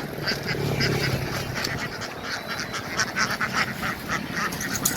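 A large flock of domestic ducks quacking, many short calls overlapping continuously.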